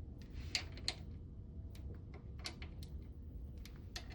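Small ratchet clicking in short, irregular strokes while tightening the small bolts of a marine water pump faceplate, with a steady low hum underneath.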